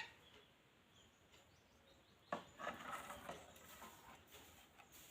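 Near silence, broken by a faint click a little over two seconds in and a few faint short sounds just after it.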